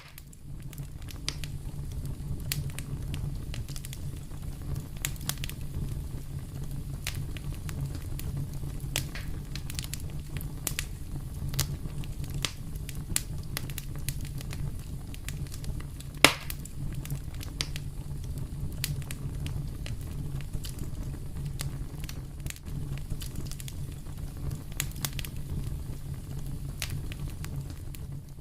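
Fireplace fire crackling: a steady low rumble under frequent sharp pops, one pop much louder than the rest about halfway through.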